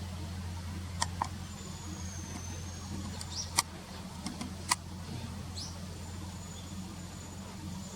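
Steady low hum of distant road traffic, with a few sharp clicks and thin, high-pitched calls of small birds: a long flat whistle and a couple of short rising notes.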